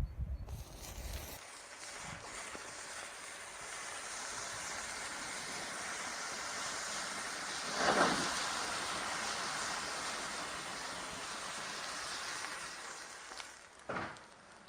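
A large mass of burning safety matches: a steady rushing hiss of fire, swelling briefly about eight seconds in.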